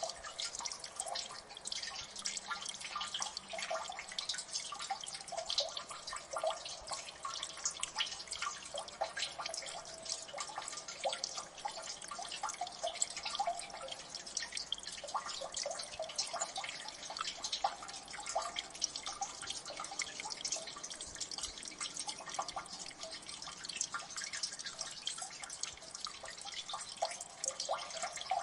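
Water dripping in a gully: many drops falling at once, giving a dense, irregular patter of small plinks with no letup.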